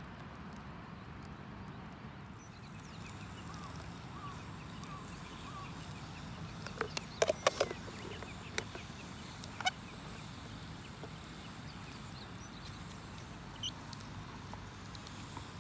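A steady low rumble with a quick run of sharp clicks and knocks about seven seconds in, followed by a few single clicks.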